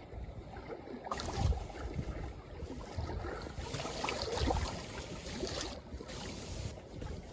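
Strong gusty wind buffeting the microphone, with small wind-driven waves splashing and lapping at the lakeshore.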